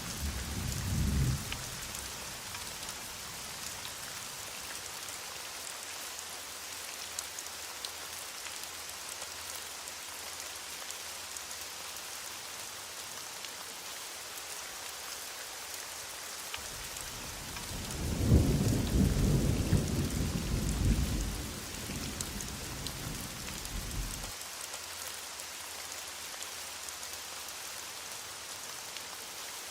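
Heavy rain falling steadily in a thunderstorm. Distant thunder rumbles twice: a short rumble dies away in the first second or so, and a longer, louder roll of about seven seconds comes past the middle.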